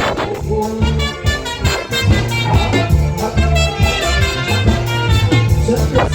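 Live band playing an instrumental passage of a Swahili song, with a strong bass line and a steady drum beat under melodic instrument lines.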